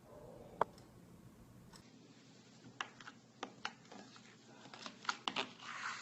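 Slime being squeezed and poked, making an irregular run of small sharp clicks and pops, with a short squishy rustle near the end.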